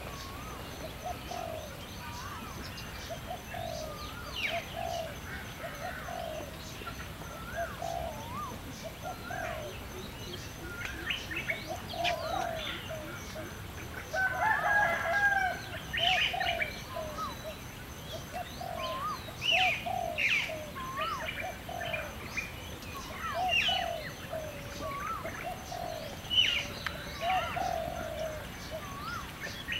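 Birds calling: a low call repeating every second or so, with short higher chirps and whistles over it and a louder call about halfway.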